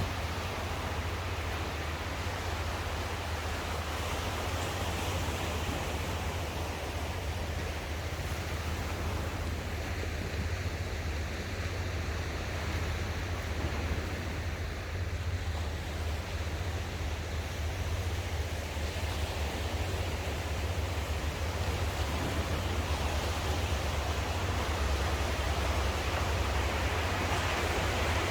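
Sea surf washing onto the shore in a steady rush, with a low wind rumble on the microphone; it grows a little louder near the end.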